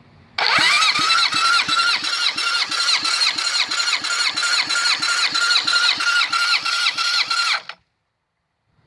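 Starter motor cranking a four-cylinder car engine during a compression test on cylinder one: a steady whine with an even chug about three to four times a second, cutting off abruptly near the end. The cylinder reads about 200 psi, good compression.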